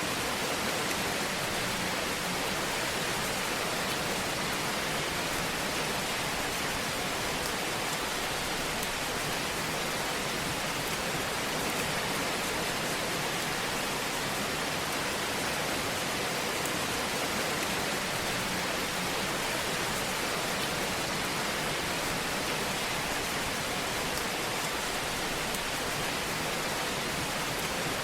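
Fireplace ambience: a fire's steady, even hiss with no loud pops.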